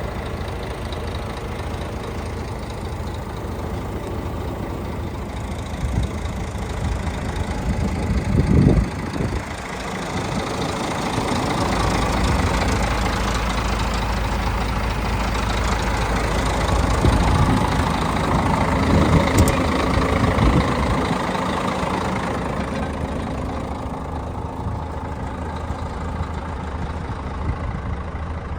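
Scania P124 truck's 12-litre inline-six diesel running, idling and then revved, with engine speed rising briefly a few seconds in and again for several seconds in the middle before settling back.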